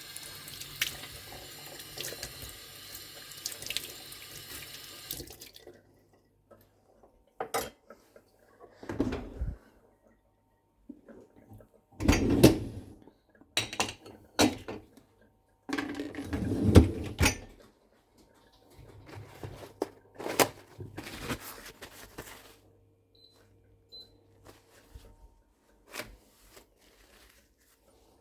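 Kitchen tap running into the sink, shut off about five and a half seconds in. Scattered knocks and clunks of kitchen things being handled follow, the loudest a little under halfway through and again past the middle.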